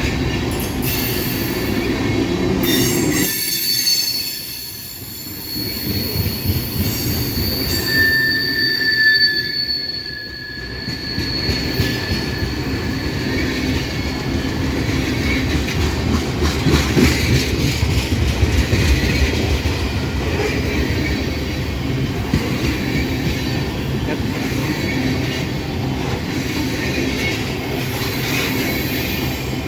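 Loaded ethanol tank cars of a long freight train rolling past, their steel wheels squealing on the rail. A high squeal holds for several seconds a few seconds in, joined by a second, lower squeal, over a steady rumble of wheels.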